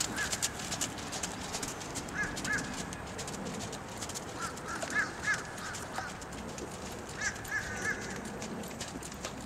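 Distant bird calls: short arched calls in groups of two or three, at about two, five and seven and a half seconds in.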